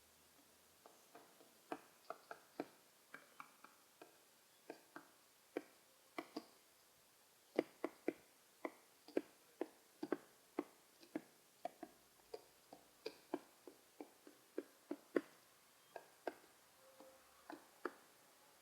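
Pigeon pecking: irregular sharp beak taps, two or three a second.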